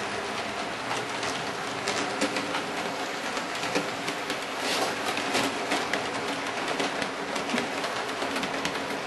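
Hornby OO gauge model train running on the layout: a steady rolling rattle with many small, irregular clicks from the wheels over the track.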